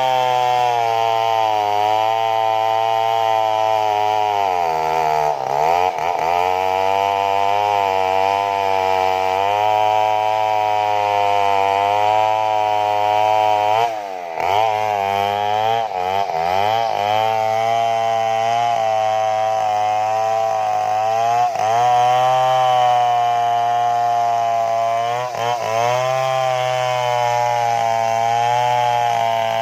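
Stihl chainsaw running at high revs while cutting into the trunk of a large tree. Its pitch dips sharply and recovers about five times, with the sharpest dips around 5 s and 14 s.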